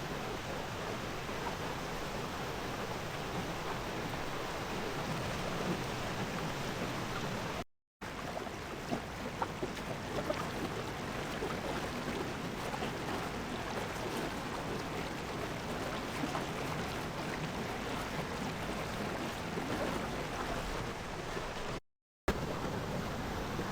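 Steady rush of flowing water from the Lesmurdie Falls creek, broken twice by a split second of dead silence where the footage is cut.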